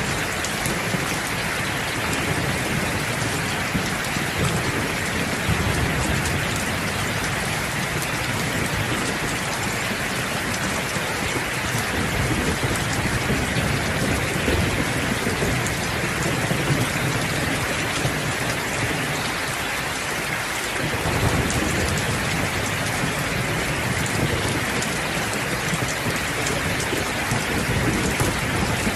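Steady heavy rain hissing evenly, with a low thunder rumble underneath that swells and fades and drops away briefly about twenty seconds in.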